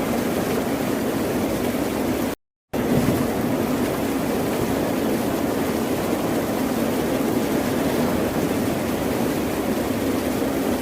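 Ocean surf making a steady, dense rushing, with a sudden drop to complete silence for about a third of a second roughly two and a half seconds in, where the recording is spliced.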